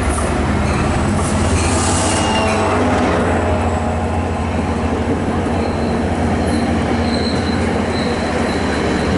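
Commuter train's silver coaches running close past the platform: a loud, steady rumble of wheels on rail with a low hum underneath. A thin high squeal comes in from about six seconds in.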